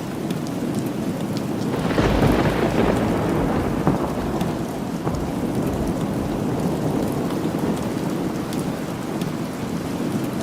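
Steady rain falling, with a roll of thunder that swells about two seconds in and slowly fades.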